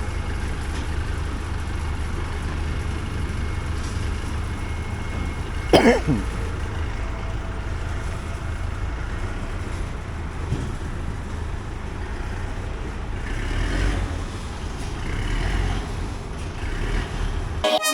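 A vehicle engine running steadily, with a brief squeal about six seconds in that falls in pitch.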